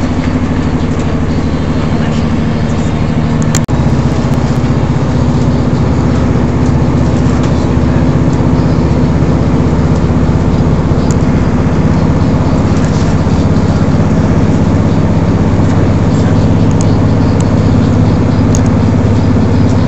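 Cabin sound of a diesel passenger train running at speed: a steady low drone of the underfloor engines over the rumble of wheels on rail, with a brief click and dropout about four seconds in.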